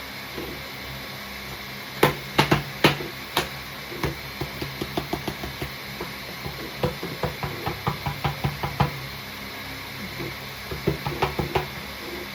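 Homemade 3D noise maker being worked by hand, giving sharp hard knocks and clicks in uneven runs: four loud ones about two seconds in, a quicker series of about three to four a second in the middle, and a short cluster near the end.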